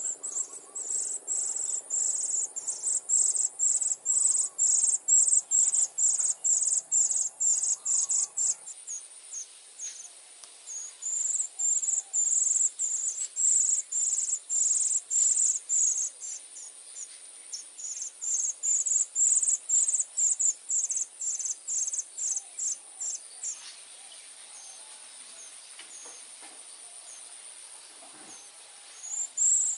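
Cuckoo chick's high-pitched begging calls, quick repeated chirps about three a second in long runs, breaking off briefly around ten and sixteen seconds in, thinning out to scattered chirps from about twenty-four seconds, and starting up again near the end. A faint steady high whine runs underneath.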